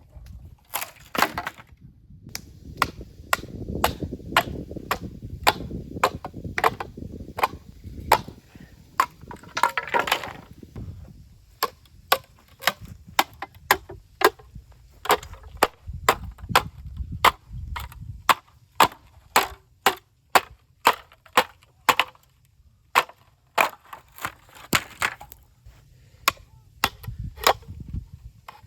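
Bamboo burning in an open fire: irregular sharp cracks and pops, with a cluster of fast crackling about ten seconds in, over a low rumble from the fire that swells and fades.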